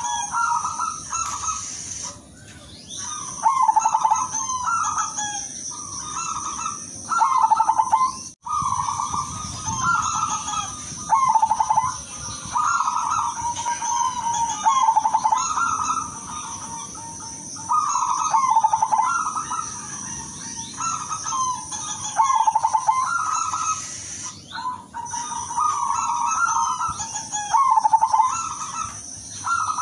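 Silver zebra dove (perkutut) cooing: a long string of short trilled phrases repeated one after another with brief pauses, over a steady high hiss.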